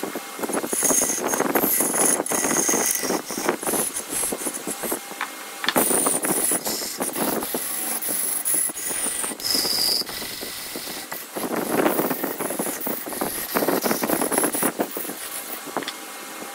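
Wood lathe turning, a hand tool cutting into the spinning wood with an uneven scraping and chattering, in bouts broken by short pauses.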